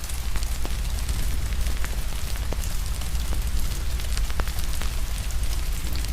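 Wood fire crackling, with scattered sharp pops and snaps over a steady low rumble and an even hiss of rain. The fire sound swells in abruptly right at the start.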